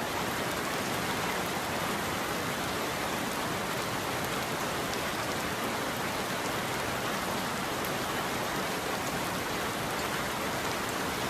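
Steady rain falling, an even hiss of drops with a few faint individual taps.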